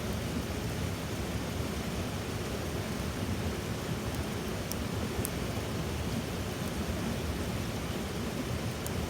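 A small wood fire burning: a steady low rushing noise with a couple of sharp crackles about halfway through.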